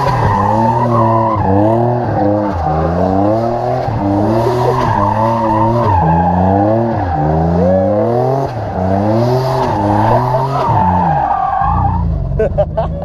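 A car engine revving up and falling back again and again, about once a second, with a wavering squeal above it.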